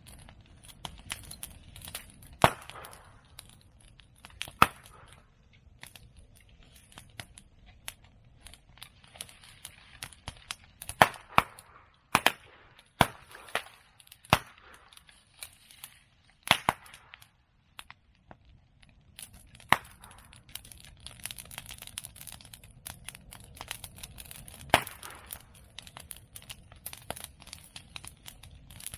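Open bonfire of cut medake bamboo and chestnut prunings crackling steadily, with about a dozen loud sharp pops scattered through it: bamboo culms bursting in the heat.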